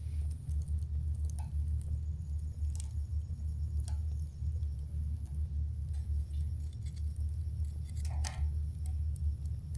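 Campfire burning, with scattered sharp crackles and pops from the burning wood, the loudest a little over eight seconds in, over a steady low rumble.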